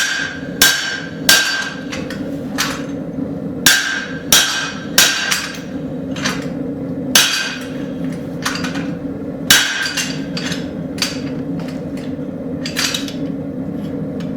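Hand hammer striking a guillotine tool on a hot railroad spike to set in the blade's shoulder: a slow, irregular series of sharp ringing metal-on-metal blows, about one a second, loudest in the first ten seconds, over a steady low hum.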